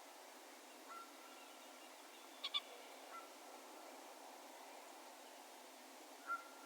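Distant bird calls echoing over an open field: a louder sharp two-note call about two and a half seconds in, and fainter single calls about a second in, around three seconds and near the end, each trailing off in an echo over a quiet outdoor hush.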